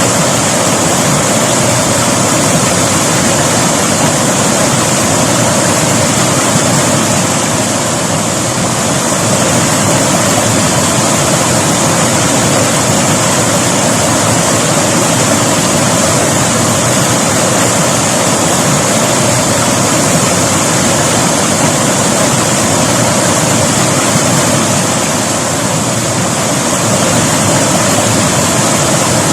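River water rushing and splashing in a steady, loud wash.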